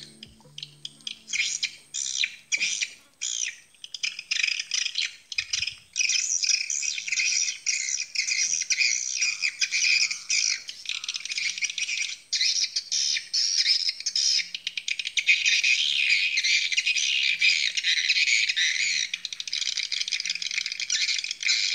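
Swiftlets chirping and twittering: scattered short chirps at first, then a dense, continuous chatter of many birds from about six seconds in.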